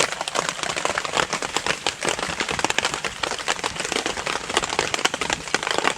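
Dense, irregular crackling and pattering from a newly lit campfire of resin-rich pine kindling, mixed with rain falling on the tarp above it.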